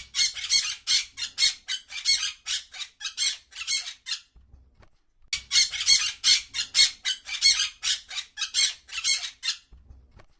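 Parrot squawking: a rapid run of harsh, repeated calls, about five a second, which breaks off for about a second a little after four seconds in and then starts again.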